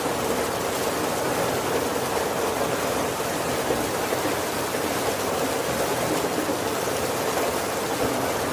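Steady heavy rain falling on a wooden roof, a dense even hiss with no separate drops standing out.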